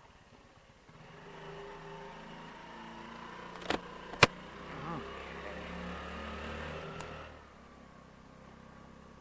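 Honda Navi 110cc motorcycle engine running under throttle for about six seconds, then dropping away near the end. Two sharp clicks, about half a second apart, are the loudest sounds near the middle.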